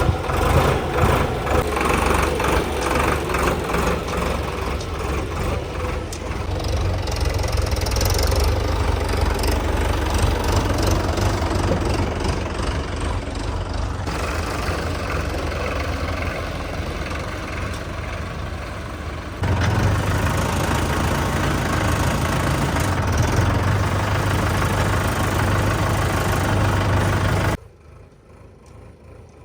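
Diesel tractor engine running steadily with a deep rumble. The sound changes abruptly twice along the way and drops to much quieter near the end.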